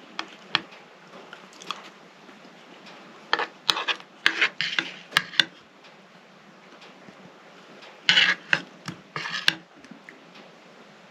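Knocks, clinks and scraping of small objects being handled in a small room, in two busy spells: one a few seconds in and one near the end.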